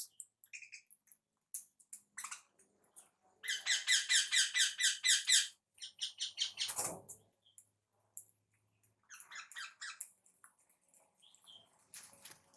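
Small pet birds calling: a loud, fast run of harsh chirps lasting about two seconds near the middle, a brief rustle or thump just after, then a shorter, softer burst of chirps.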